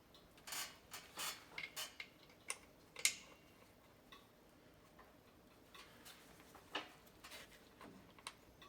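Irregular metallic clicks and short scrapes of hand tools and bolts being worked while a circulator pump is bolted back together, the sharpest click about three seconds in.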